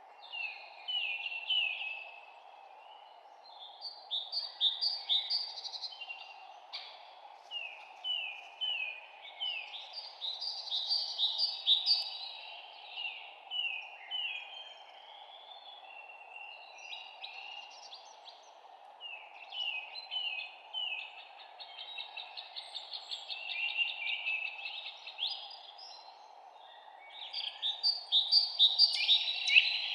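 Several songbirds singing, with quick runs of falling chirps and trills that keep coming throughout and get loudest near the end, over a steady low hiss.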